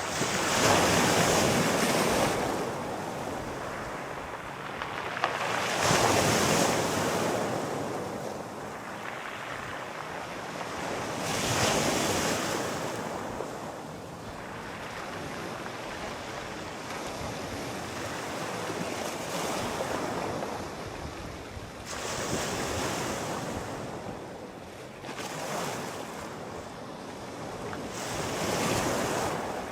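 Sea waves breaking and washing in, each a rushing surge that swells and fades over a couple of seconds, five in all, with a calmer stretch of steady wash in the middle.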